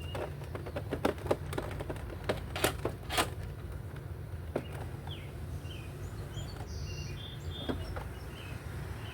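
A quick series of sharp clicks and knocks in the first three seconds, then faint bird chirps over a steady low hum.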